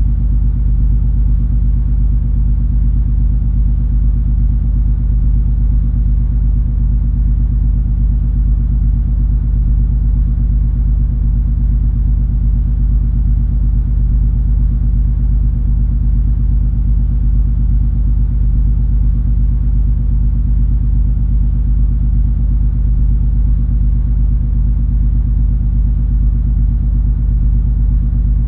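Deep, steady rumble of the cruise ferry MS Color Magic under way, its engines and propulsion droning with a few held low hums and no change throughout.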